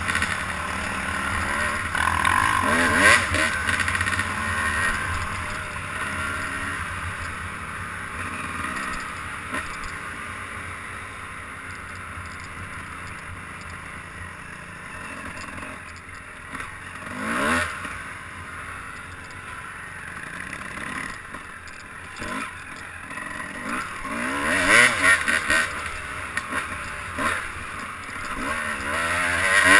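Engine of a ridden vehicle running, its pitch rising and falling several times as the throttle opens and closes, under a steady rushing noise.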